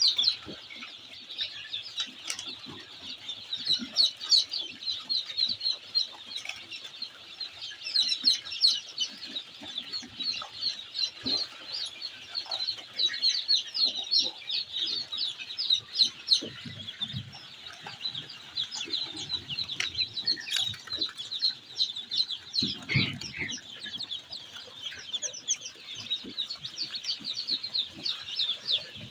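A brood of day-old chicks peeping continuously: many short, high chirps overlapping one another, with a brief low rustle or thump about two-thirds of the way through.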